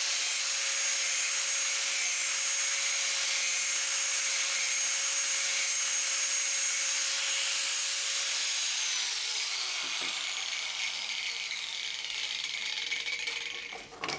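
Angle grinder with a thin cut-off disc cutting through 4-inch PVC pipe, a steady high whine. About nine seconds in the motor is switched off and winds down, its whine falling in pitch as it fades.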